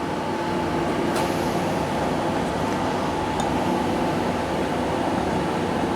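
A workshop power tool's motor running steadily, a constant hum with several fixed tones.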